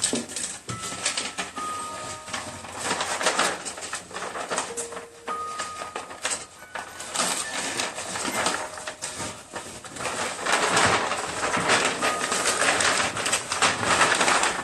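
Sheets of paper being handled and rustled as a drawing sheet is changed, with a heavy spell of rustling about ten seconds in. A wind-up music box plays scattered single notes underneath.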